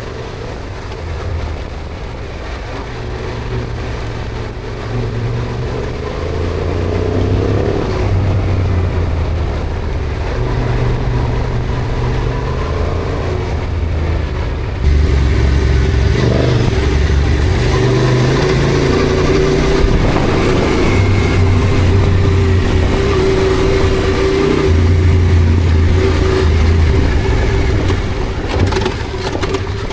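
Yamaha Ténéré adventure motorcycle running under way, its engine mixed with low wind rumble on the microphone; the sound jumps louder abruptly about halfway through.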